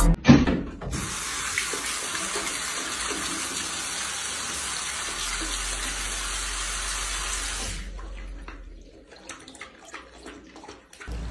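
Water running steadily from a bathroom basin faucet while a dog licks at the stream. The flow stops about eight seconds in, leaving only faint clicks. A short loud sound comes right at the start.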